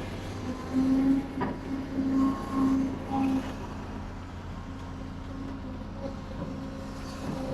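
Heavy construction machinery running with a steady engine hum, with a few short louder pulses in the first half before it settles to an even drone.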